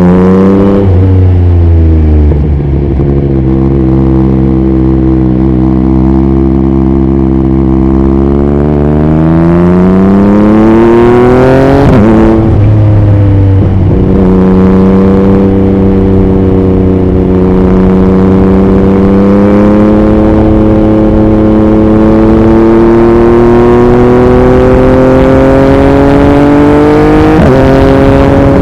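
2021 Yamaha MT-09's 889 cc three-cylinder engine through an Akrapovič racing exhaust, pulling with a steadily rising pitch, then a quick gear change about twelve seconds in. After that it holds a steady note that climbs slowly, with another shift near the end, and wind noise on the microphone underneath.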